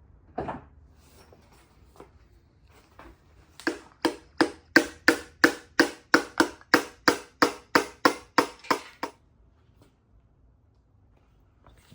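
A run of about seventeen sharp, evenly spaced knocks from a hand tool on engine parts during an engine rebuild, roughly three a second, starting about four seconds in and stopping about nine seconds in, after a single knock near the start.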